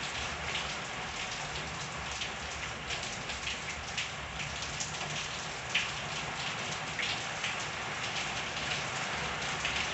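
Steady rain falling in a backyard, an even hiss with scattered louder individual drips striking a surface.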